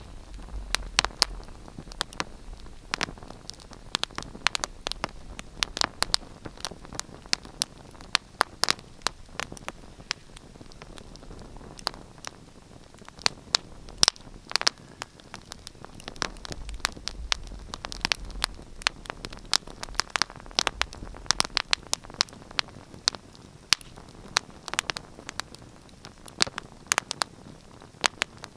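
Wood fire crackling: many sharp, irregular pops and snaps over a soft steady hiss.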